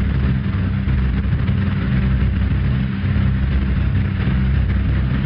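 Piston engines of a B-25 bomber, its twin-row Wright R-2600 radials, running steadily with a deep, even drone.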